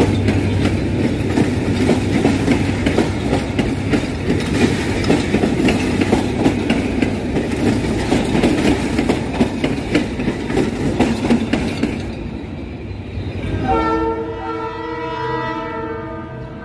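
Passenger train carriages rolling past close by, wheels clattering over the rail joints. The clatter thins out about twelve seconds in as the last coach passes, and a long, steady horn note sounds near the end.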